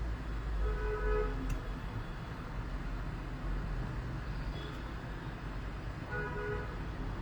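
Two short vehicle-horn toots, about five seconds apart, over a steady low rumble.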